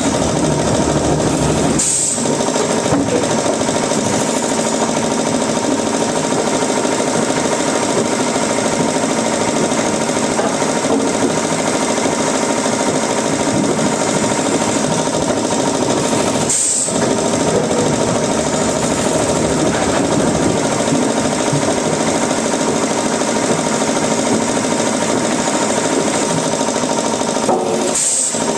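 Wood-processing machinery in a workshop running steadily: a loud, dense machine noise that breaks off and picks up again about two seconds in, around the middle and near the end.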